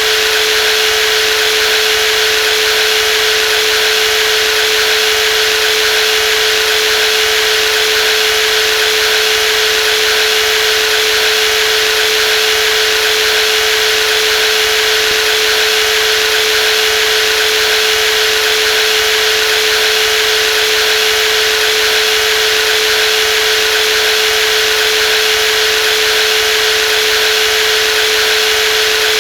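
Brushless jigsaw running continuously at a constant speed: a steady, unchanging machine sound with one held tone and a hiss above it.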